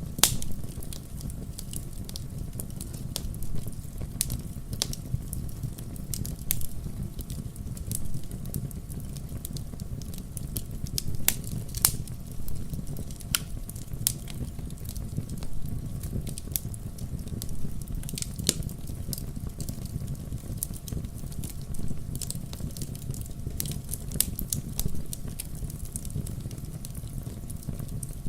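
Wood fire burning in a fireplace: a steady low rumble of flames with irregular sharp crackles and pops, several a second, a few louder pops about halfway through.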